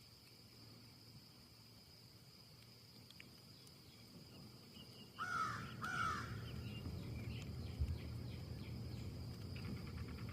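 A bird gives two loud calls in quick succession about halfway through, each dipping in pitch. A steady low rumble and a faint high steady hum run underneath, and fainter quick ticking calls start near the end.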